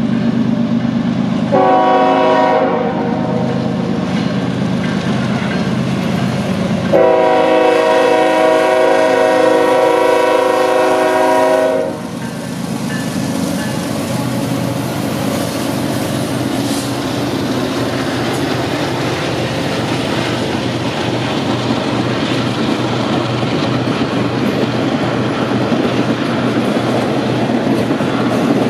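Union Pacific diesel locomotive passing a grade crossing. Its engine drones while the horn sounds a short blast about two seconds in, then a long blast of about five seconds, warning for the crossing. After that the passenger cars roll past with a steady clatter of wheels on rail.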